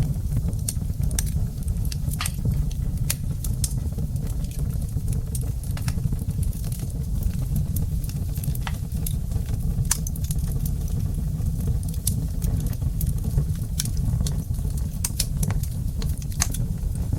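Wood fire burning in a brick fireplace: a steady low rumble with many sharp, irregular crackles and pops, several a second.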